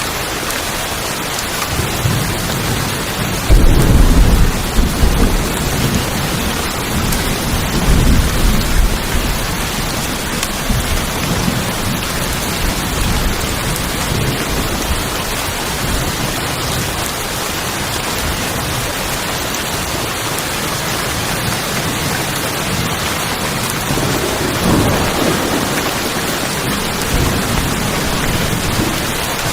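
Steady rain falling on a tin roof, with thunder rumbling a few seconds in and again near the end.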